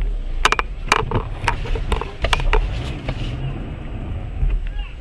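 A car's low engine and road rumble, with a quick run of sharp knocks or clatters in the first half.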